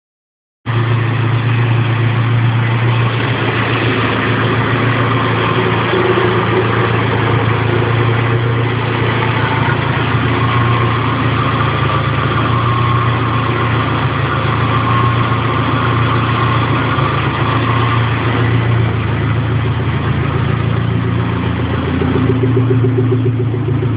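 Saab 99's 2.1-litre 16-valve engine idling steadily through a 2.5-inch Simmons exhaust; it gets a little louder near the end.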